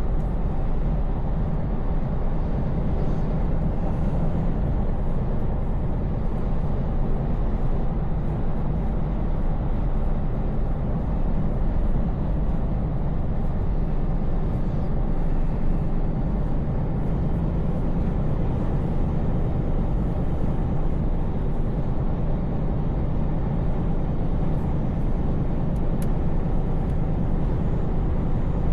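Scania truck's V8 diesel engine running at a steady cruise, a constant low drone mixed with road noise.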